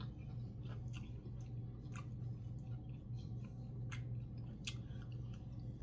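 A person chewing food with scattered wet mouth clicks and smacks, over a steady low hum.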